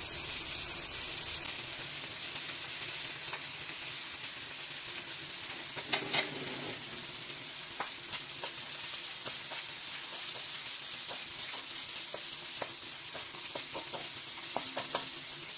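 Chicken strips sizzling in a hot metal wok while a wooden spatula stirs and scrapes them, with a steady hiss throughout. A brief clatter comes about six seconds in, and quick knocks of the spatula against the pan come more often near the end.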